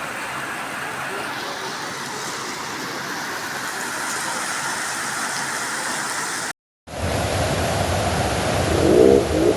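Steady rushing noise of heavy rain and flowing water. It cuts off abruptly about six and a half seconds in and returns louder after a moment, with a short pitched sound near the end.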